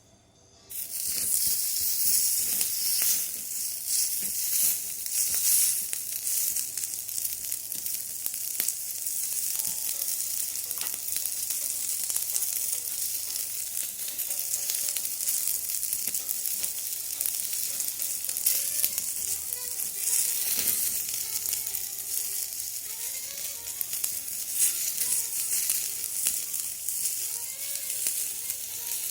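Food sizzling and spitting on a small thick iron griddle over a mini fire stand, starting abruptly about a second in and running loud and steady with crackles.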